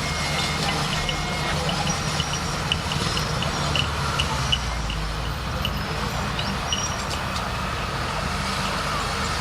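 Bulldozer's diesel engine running steadily with a low hum. A light, rapid high ticking, about three or four a second, runs over it for the first several seconds.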